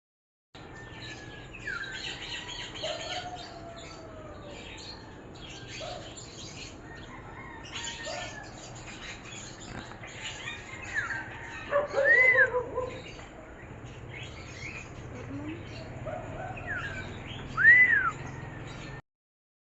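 Several birds singing and chirping in the morning, with short chirps and whistled calls over a low steady hum. The loudest are two arching whistled notes, about twelve and eighteen seconds in.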